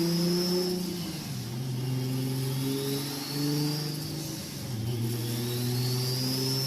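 Toyota Supra MK4 engine pulling hard, with a high turbo whistle rising as it spools, twice. The engine note breaks off briefly about four seconds in, then picks up again.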